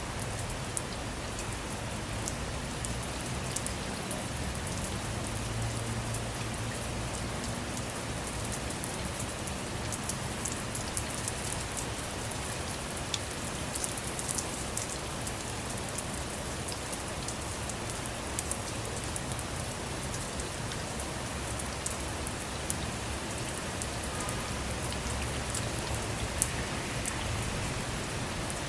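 Steady rain falling on a car or motorhome, an even hiss with many small drop ticks and a few louder single drips.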